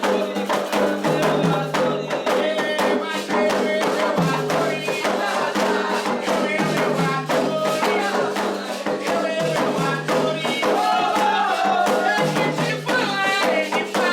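Candomblé toque: atabaque hand drums and other percussion keep up a steady, dense rhythm while voices sing over them.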